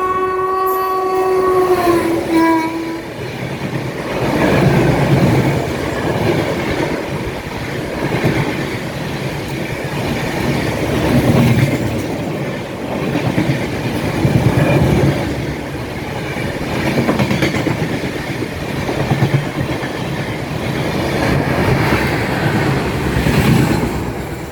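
Navjeevan Express train: the locomotive's horn sounds for about three seconds, dropping slightly in pitch near the end. It is followed by the loud rumble and clatter of the train's wheels on the rails, swelling and fading every few seconds.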